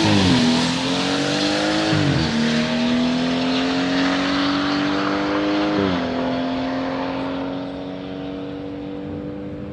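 BMW 540i with an open exhaust dump accelerating hard down the drag strip. The engine climbs in pitch through each gear, with upshifts just after the start, about two seconds in and about six seconds in, and fades as the car pulls away.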